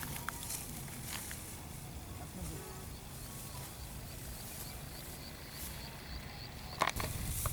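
Quiet outdoor ambience: a steady low rumble with a faint, high chirp repeated about three times a second through the middle, and a few faint ticks.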